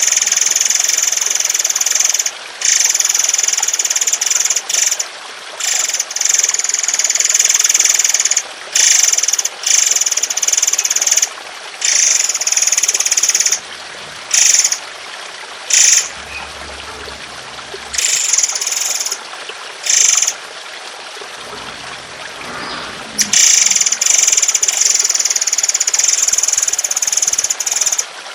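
A bird giving long, harsh, rattling bursts of song, one to three seconds each with short breaks between, the 'tembakan panjang kasar' (long rough shots) used to train caged songbirds. Water trickles steadily underneath, and it shows plainly in the breaks.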